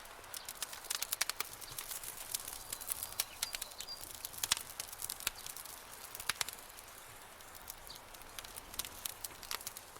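Campfire burning, the wood crackling with irregular sharp snaps and pops over a soft hiss; the snaps come thick for most of the stretch and thin out near the end.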